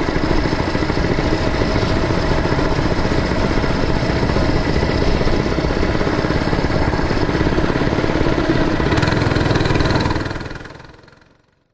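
Mini bike's small engine running steadily, with the sound fading away over about a second and a half near the end.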